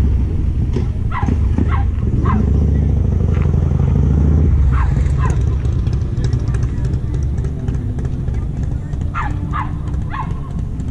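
A motor vehicle's engine running with a steady low rumble, strongest in the first half, while a dog barks several times in short yelps, in two clusters early and near the end.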